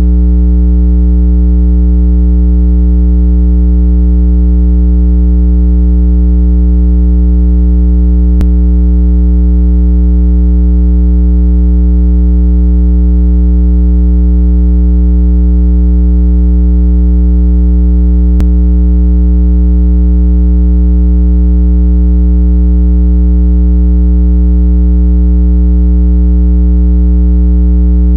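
Steady, loud, low electronic tone with a stack of overtones, unchanging throughout: a synthesized 165 Hz water-eject tone, played to vibrate earbud and phone speakers so that trapped water is shaken out.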